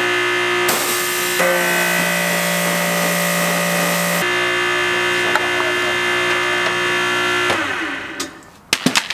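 Pressure washer motor running, its spray hissing for a few seconds and its pitch shifting in steps as the trigger is worked, then shutting down near the end, followed by a few sharp clicks.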